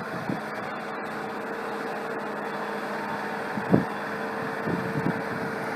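Subaru Legacy running, a steady vehicle hum with a faint steady tone through it and one short louder noise a little over halfway in.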